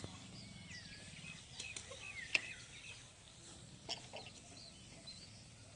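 Birds calling in short, scattered chirps, which sound like village chickens clucking, with two sharp knocks about two and four seconds in, the first the loudest sound here.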